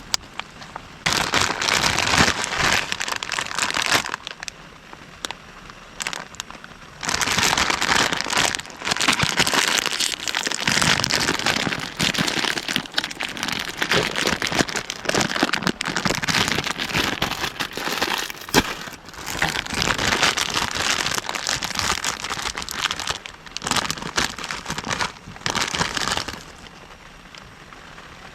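Heavy rain beating on a tent's plastic-like fabric, a crackling patter of many small hits. It comes in loud gusty waves of several seconds that start and stop abruptly, over a quieter steady hiss.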